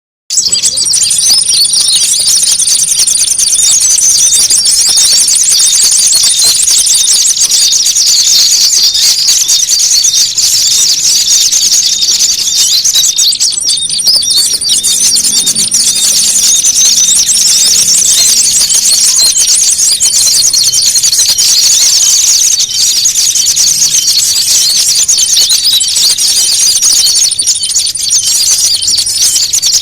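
A dense, noisy chorus of small songbirds chirping and twittering rapidly all at once, a looped bird-lure recording of agitated calls used to draw small birds in. It starts abruptly out of silence right at the beginning.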